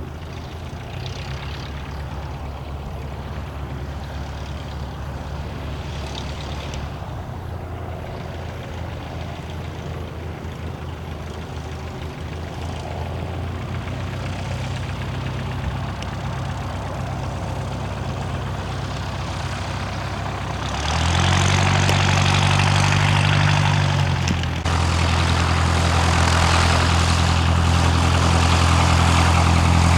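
Cessna 162 Skycatcher's four-cylinder Continental engine and propeller running at low power, then throttled up about two-thirds of the way in: the note rises and grows louder, dips briefly, then holds steady at higher power.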